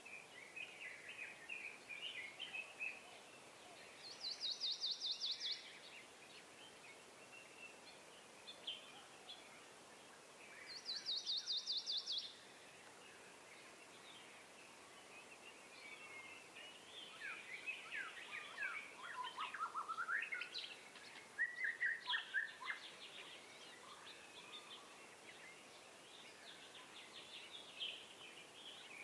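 Birds calling over a faint outdoor background: scattered chirps, two short, fast, high trills about four and eleven seconds in, and a busier run of chirps and falling whistles about two-thirds of the way through.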